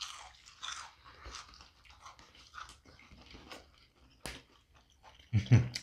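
Close-miked chewing and biting on a big, sloppy burger, with soft wet mouth sounds and small crunches. A single sharp click comes about four seconds in.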